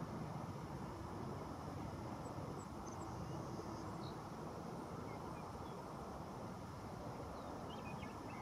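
Steady low rumble of outdoor background noise, with a few faint, brief bird chirps scattered through it.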